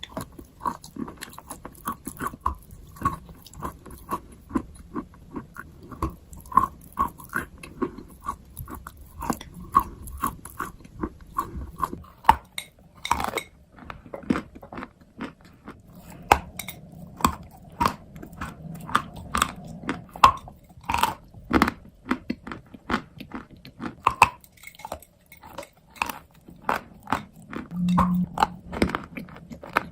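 A person biting and chewing dry chalk and baked clay pieces close to the microphone: a continuous, irregular run of sharp crunches and crackles.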